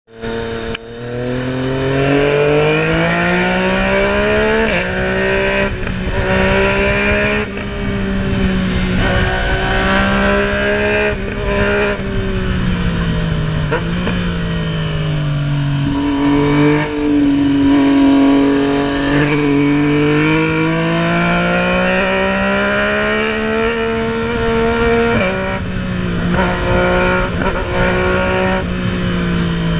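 Yamaha MT-09's three-cylinder engine running under way, its pitch rising and falling as the throttle opens and closes: climbing in the first couple of seconds, dipping about halfway through, then climbing again. Wind noise rumbles underneath.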